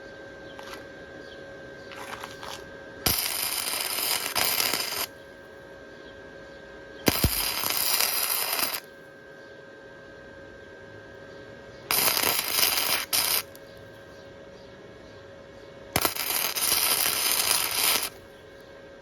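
Wire-feed welder striking an arc on a thin dirt-bike frame tube in four short bursts of about two seconds each, with pauses between. The trigger is pulsed rather than held so the thin metal does not burn through. A faint steady hum runs underneath.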